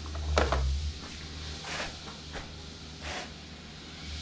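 A few scattered light knocks and clinks of hand tools being handled, the sharpest about half a second in, over a steady low hum.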